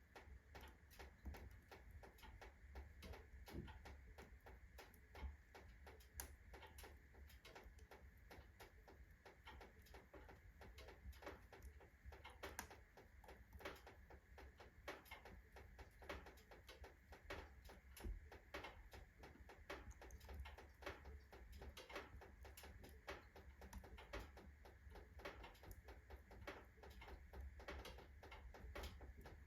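Faint, irregular ticking and crackling from a freshly loaded wood-burning stove heating up fast: the stove's iron ticking as it expands, along with the kindling burning.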